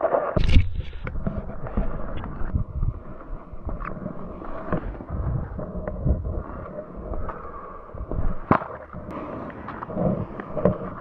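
Strong wind buffeting an action camera's microphone in a blizzard: an irregular low rumble broken by many sharp knocks and crackles, one sharper crack about eight and a half seconds in.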